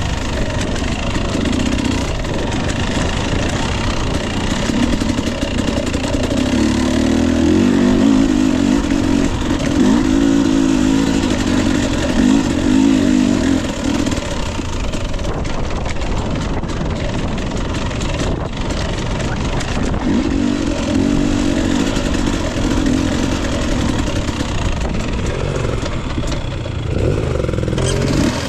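Fuel-injected (TPI) 250 cc two-stroke dirt bike engine of a Husqvarna TE 250i, revving up and down under load in long pulls. It is loudest in two stretches, through the middle and again later on, over a steady hiss.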